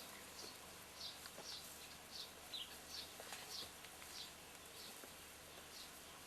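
A bird chirping over and over: short, high, slightly falling chirps about two a second, faint over a steady background hiss.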